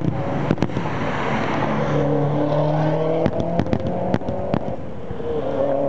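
Aerial fireworks going off: scattered sharp bangs, several in quick succession a little past halfway, over a crackling hiss. A steady, droning pitched tone runs beneath them from about two seconds in.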